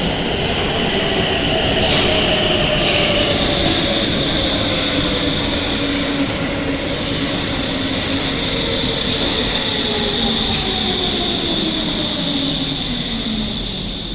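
Newer-type Stockholm metro train running on the rails: a steady high wheel squeal over the running noise, and a lower whine that falls steadily in pitch as the train slows. A few sharp clicks from the track sound in the first half.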